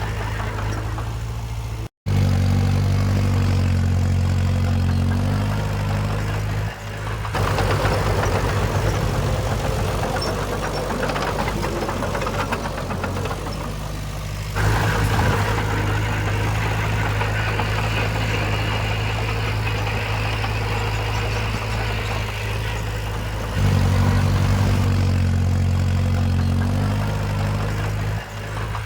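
Diesel engines of heavy earthmoving machinery running steadily at the jobsite, with the sound changing abruptly several times and cutting out for an instant about two seconds in.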